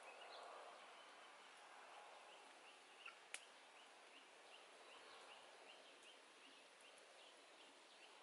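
Near silence outdoors: a small bird chirps over and over, about three short chirps a second, from about two seconds in, with one sharp click a little after three seconds.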